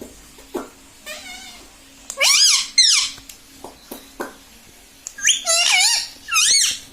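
Indian ringneck parrot calling in high, wavering squawks that rise and fall in pitch: a faint call about a second in, a loud pair of calls a little after two seconds, and a longer run of loud calls near the end.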